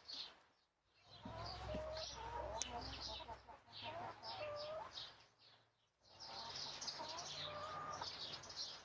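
Backyard hens clucking and calling in low, wavering tones, with many short high chirps throughout; the sound drops away briefly twice, near one second and near six seconds in.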